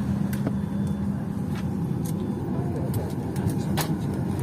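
Boeing 737-800 cabin noise: a steady low rumble with a hum that fades about a second in, and a few short clicks.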